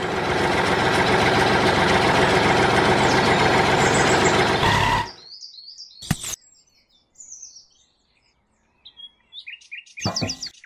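A small engine running steadily for about five seconds, then cutting off abruptly. Birds chirp after it, with a sharp click a second later and a short loud burst of noise near the end.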